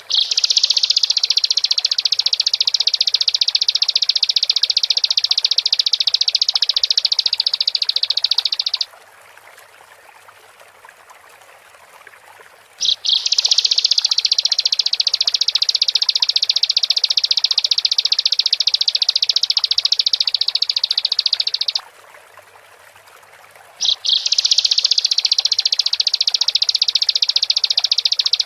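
Bar-winged prinia (ciblek) singing in long, very fast, high-pitched trills. The first two each last about nine seconds, and a third starts after a pause of a couple of seconds.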